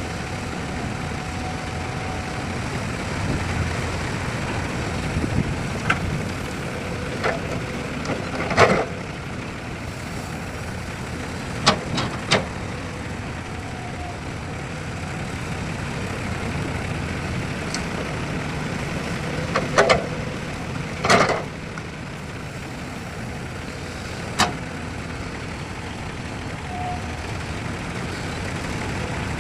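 Heavy vehicle engine running steadily, with several sharp knocks or clanks scattered through.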